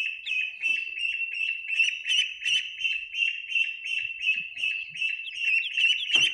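Newly hatched ducklings peeping: many short, high chirps overlapping without a break. A single knock sounds near the end.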